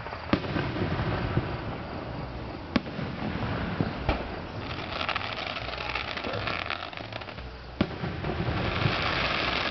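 Aerial fireworks shells bursting, a handful of sharp booms a few seconds apart, with stretches of crackling noise between them.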